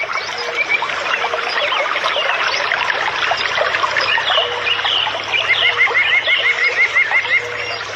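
Many birds chirping at once in a dense chorus. Late on, a rapid run of evenly repeated notes, about five a second, lasts for about two seconds.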